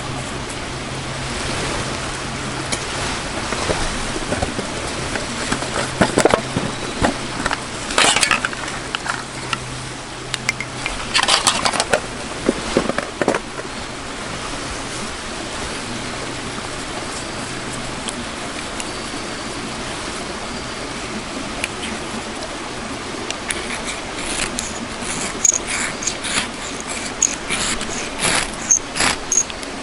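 Steady rushing background noise with a low hum over the first half, scattered clicks and knocks, and a run of rapid clicks and taps near the end.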